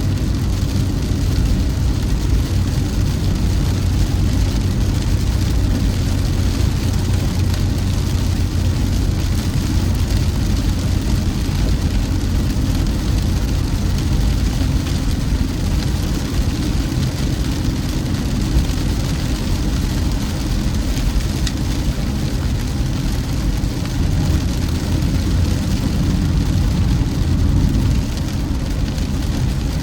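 Car driving at a steady pace: an even low rumble of engine and road noise.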